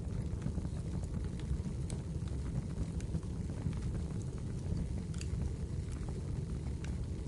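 Wood fire burning in a fireplace: a steady low rumble of flame with scattered crackles and small pops of firewood, two sharper pops about five and seven seconds in.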